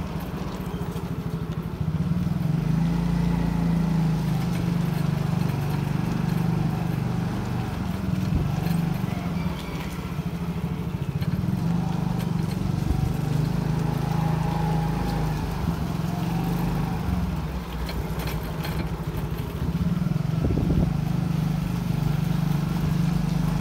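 A motorcycle engine runs steadily while the bike is ridden along a street. The level dips briefly twice, about ten and eighteen seconds in.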